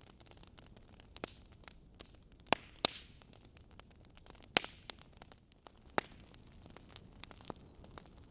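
Burning logs in a fireplace crackling: a soft steady hiss with scattered sharp pops and snaps, a few louder ones standing out every second or two.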